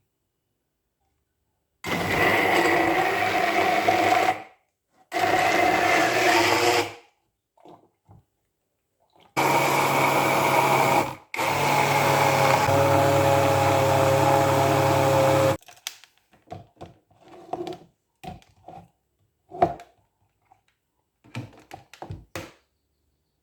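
Electric blender motor run in four bursts, the last the longest at about four seconds, followed by scattered light clicks and taps.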